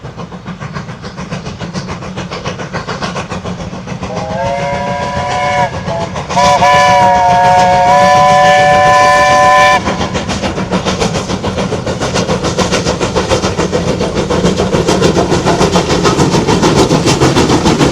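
Steam locomotive approaching, its rapid regular beat growing louder, and its steam whistle sounding a chord of several notes: a short blast about four seconds in, then a longer, louder blast of about three seconds.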